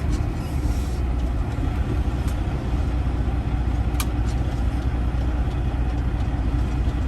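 Freightliner Classic XL semi truck's diesel engine running steadily at low speed as the truck makes a slow turn, heard from inside the cab. A single sharp click about four seconds in.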